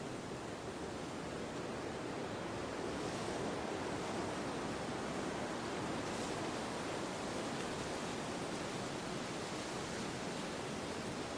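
Steady wind, an even rushing noise that holds at one level without distinct gusts.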